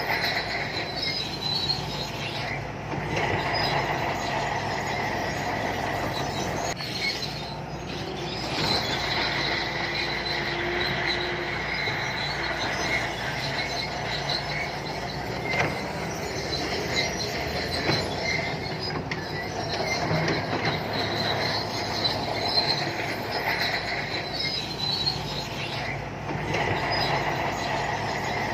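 Santui crawler bulldozer working: its diesel engine runs steadily under a continuous high metallic squeal and clank from the steel tracks.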